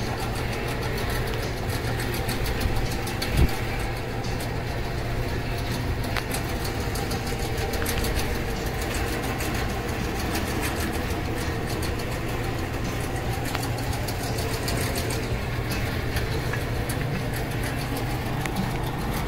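Mustang 5.0's supercharged V8 engine idling steadily, with one sharp click about three and a half seconds in.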